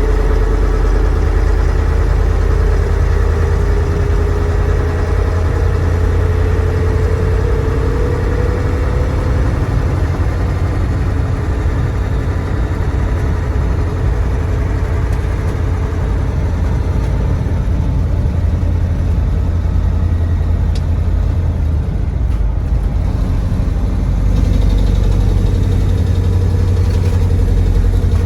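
Mercedes-Benz SK 1729 truck's 15-litre OM442 V8 diesel running under way, a deep steady engine note with a whine that rises slowly over the first several seconds, then grows louder again near the end.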